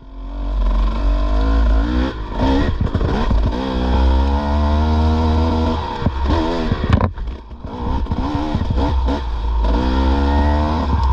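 Dirt bike engine running under throttle on a trail, its pitch rising and falling as the rider works the throttle, easing off about six seconds in and then picking up again.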